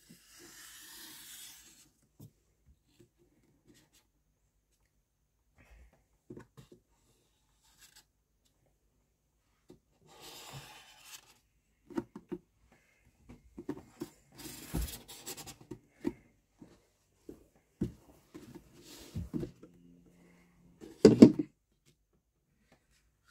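Marker pen scratching on cardboard in short patches while drawing around a plastic bucket, with knocks and handling clatter of the bucket and cardboard; the loudest knock comes near the end.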